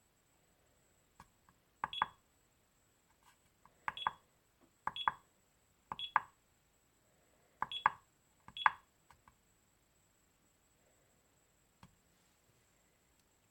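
Hobby LiPo battery charger giving six short beeps, each just after a click, spaced irregularly over about seven seconds, as its buttons are pressed.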